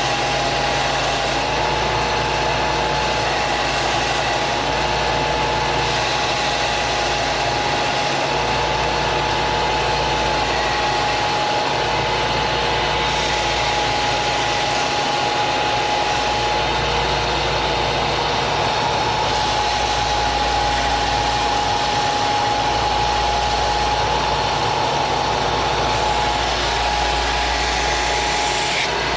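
An electric woodworking machine running steadily, with a constant whine.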